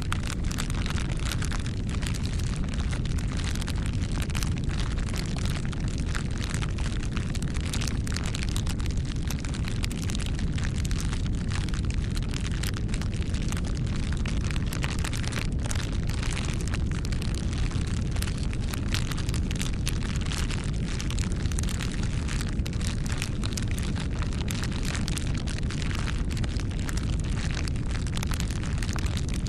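Bonfire burning: frequent irregular crackles and pops over a steady low rumble.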